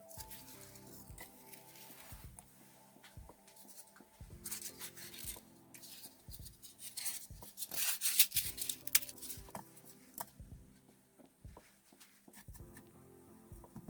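Rustling and scratching handling noise with scattered small clicks, loudest about eight seconds in, over soft background music.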